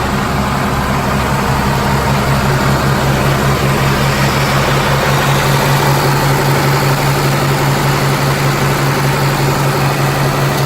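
Cummins diesel engines of 2007 Peterbilt 340 winch trucks running steadily at a raised idle held by the cruise control, a constant low hum.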